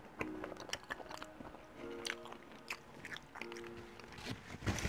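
Close-miked chewing of a mouthful of tender roast beef: scattered small mouth clicks and smacks. Soft background music with held notes sounds in a few short stretches.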